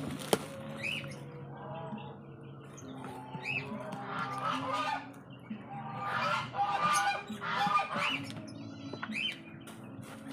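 Geese honking, a string of repeated calls that grow louder and denser in the second half.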